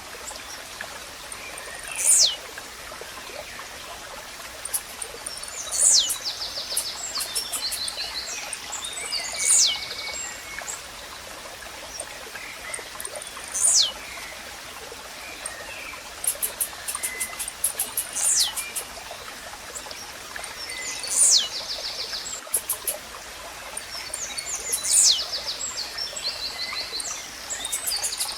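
Blue-black grassquit (tiziu) repeating its short, sharp song note that falls steeply in pitch, about every four seconds, seven times. Under it runs a steady hiss of running water, with rapid ticking trills from other small birds between the songs.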